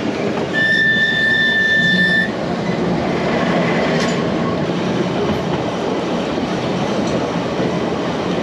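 Manx Electric Railway electric tramcar running along the track with a steady rumble. A high steady squeal is heard for about two seconds near the start, and there is a single sharp click about four seconds in.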